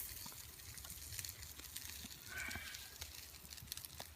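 Streaky bacon sizzling over a small campfire, with faint crackles and pops. A short animal call sounds once, about two and a half seconds in.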